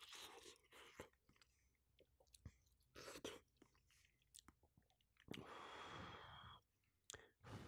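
Faint, close-miked chewing of a mouthful of shrimp omelette, with small mouth clicks and a longer soft hiss about five seconds in.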